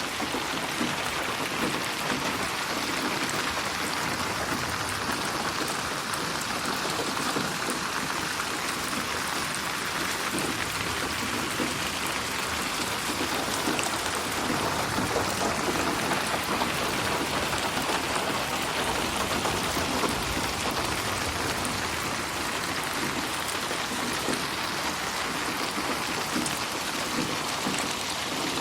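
Steady heavy rain falling, a dense even patter of drops on a surface.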